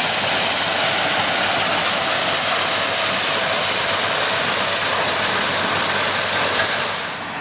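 Harvest machinery running close by: a loud, steady rushing noise with no clear engine beat. It drops away suddenly near the end.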